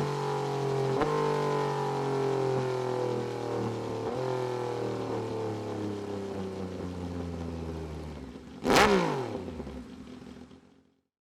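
Moto2 Triumph 765 three-cylinder engine running through a 3-1 full titanium race exhaust on a dyno, its engine note falling steadily as it winds down, with a couple of brief jumps in pitch. Near the end comes a single loud, sharp bang from the exhaust, then the note sweeps down and dies out.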